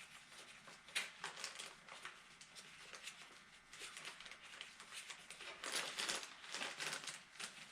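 Faint clicks and rustling of hands working on disconnected hydraulic hose fittings of a backhoe's controls, with clusters of small knocks about a second in, around the middle and near the end.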